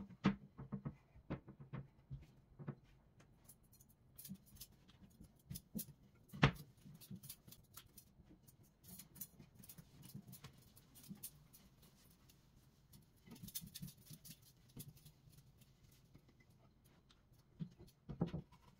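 Scattered light clicks, taps and rustling of household items being handled and set down, with a louder knock about six seconds in.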